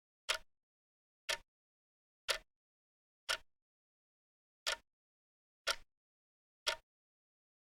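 Wrist watch ticking: seven sharp, crisp ticks about one a second, with a slightly longer gap before the fifth.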